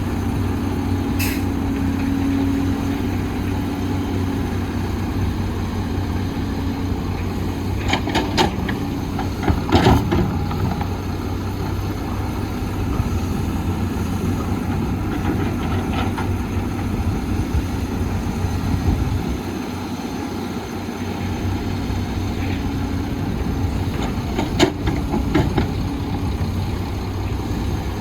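Heavy diesel construction machinery running steadily, with a few sharp knocks or clanks about a third of the way in and again near the end.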